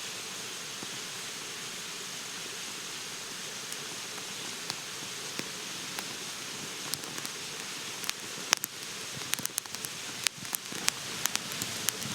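Steady outdoor hiss with a faint high steady tone. In the last few seconds comes a quick, irregular run of sharp clicks and snaps.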